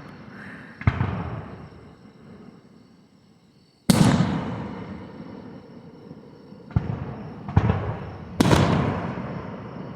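Aerial firework shells bursting: five sharp bangs, each followed by a rumble that dies away over a second or more. One comes about a second in, one near four seconds, and three in quick succession near the end.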